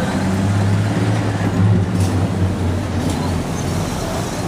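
A motor vehicle engine running, a steady low note that is strongest for the first three seconds or so and then eases off, over general street noise.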